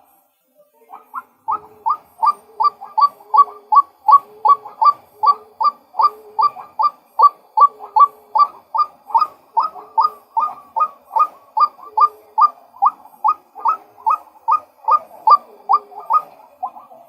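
Male white-breasted waterhen calling: a fast, steady run of short rising notes, nearly three a second, with lower notes beneath them. The run starts about a second in, after a brief pause.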